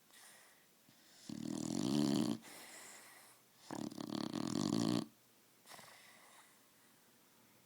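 A sleeping dog snoring: two loud, rattling snores about a second long each, with softer breaths between them.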